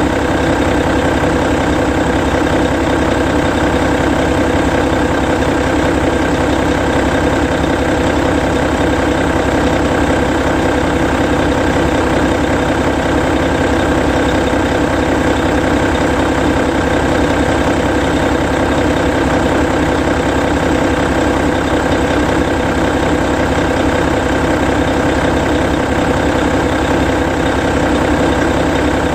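Hino E13C 12.9-litre inline-six diesel engine of a Hino Selega tour bus idling steadily while parked.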